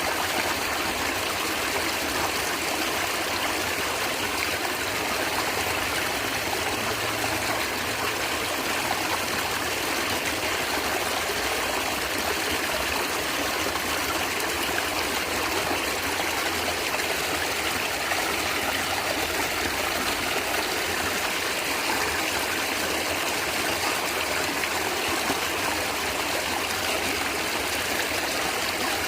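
Natural stream water gurgling and trickling steadily.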